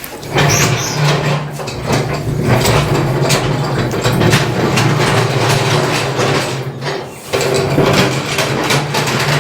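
A heavy steel motorcycle lift table being wheeled on its castor wheels, a loud continuous rolling noise that breaks off briefly about seven seconds in.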